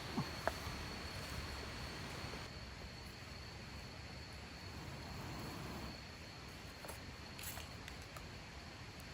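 An insect calling outdoors: one steady, unbroken high-pitched tone over a low background rumble, with a couple of small clicks at the very start.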